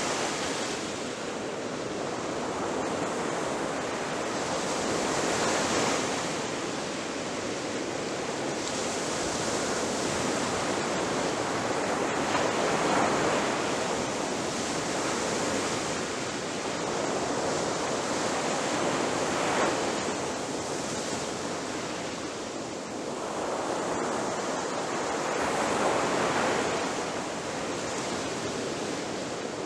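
Ocean waves breaking on a shore: a continuous rushing surf that swells and eases every few seconds, with no single crash standing out.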